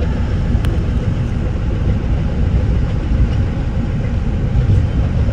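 Steady low rumble of a Metra bi-level commuter coach rolling along the track, heard from inside the cab car, with one faint click less than a second in.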